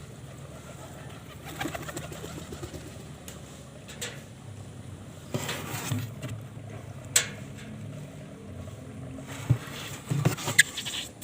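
Domestic pigeons cooing low, with scattered knocks, taps and rustles, the sharpest about seven seconds in and a cluster near the end.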